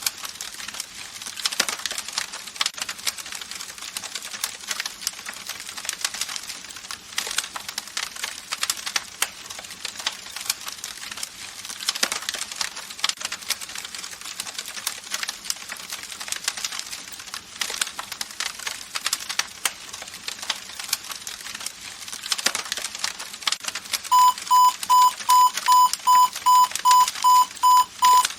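Campfire crackling, a dense run of pops and snaps over a soft hiss. Near the end an electronic wake-up alarm starts beeping fast, about three loud high beeps a second, over the fire.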